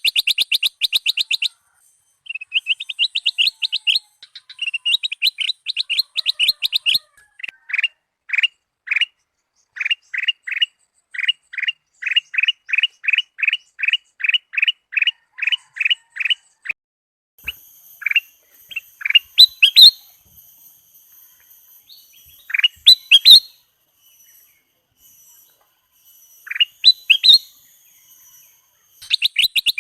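Kutilang emas bulbul singing: fast runs of short repeated chirps, then a slower series of down-slurred notes about three a second, then scattered rising whistled notes over faint thin high tones.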